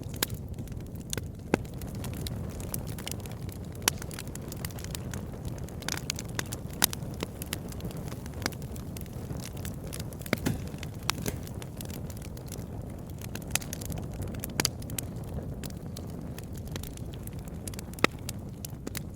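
Wood fire burning with a steady low rumble and irregular crackles and pops, a few louder snaps standing out.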